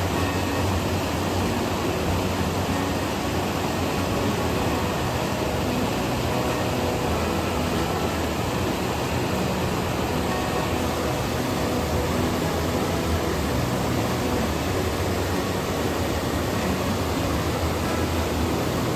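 Steady rushing of a gushing mountain stream and its waterfalls.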